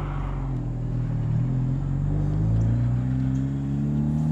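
A car engine pulling under acceleration, its pitch rising slowly and steadily.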